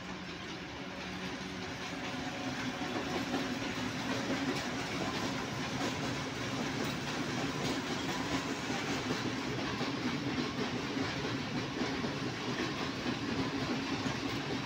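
Freight train passing: an electric locomotive hauling a long string of covered hopper wagons, the wheels running over the rails in a steady rumble. It grows louder over the first few seconds, then holds steady as the wagons roll by.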